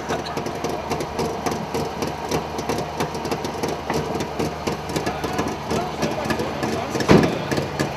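Old car engine idling steadily close by, with a thump about seven seconds in.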